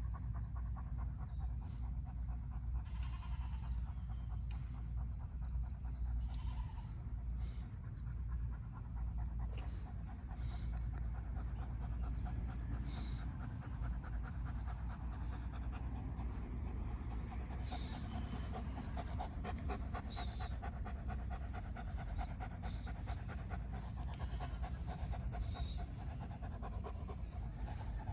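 A dog panting rapidly and steadily close to the microphone, over a steady low rumble.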